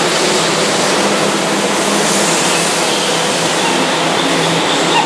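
Keihan 2200-series electric train running past along a station platform: a steady rush of wheel and running noise with a faint low hum.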